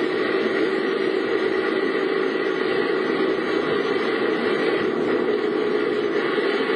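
Steady car running noise: engine and road sound from a vehicle being driven, unchanging.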